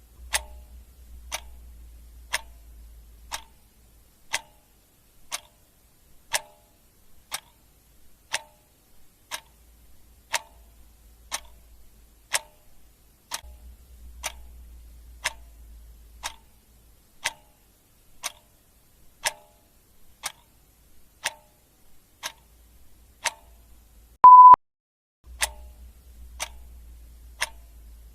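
Clock ticking steadily, one sharp tick a second. A single short, high beep sounds once near the end.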